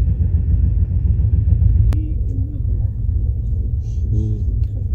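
Steady low rumble of a moving passenger train running along the track, heard inside a closed second-class AC coach. A single sharp click about two seconds in.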